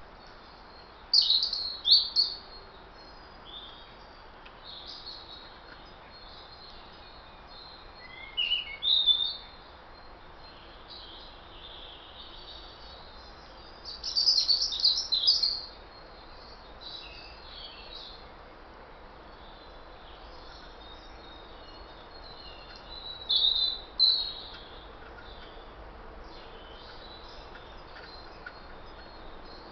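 Wild birds chirping and calling in several short bursts, with quieter chirps between them, over a faint steady hiss.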